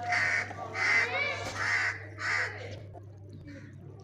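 A bird calling repeatedly: four short calls in quick succession, then a fainter one near the end, over a steady low hum.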